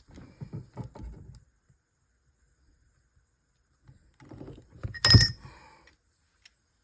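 Steel transmission parts clattering as they are handled, then about five seconds in a single loud, ringing metal clank as a bearing comes off the transmission shaft and drops.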